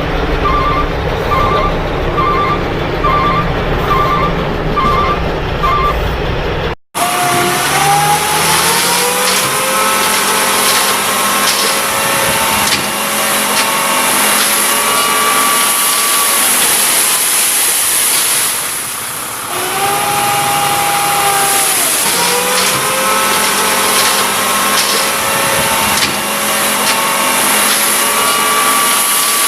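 A dump truck's reversing alarm beeps about once a second over the low rumble of its engine. After a sudden cut, the truck engine revs and labours, its pitch rising and falling several times as it works under load.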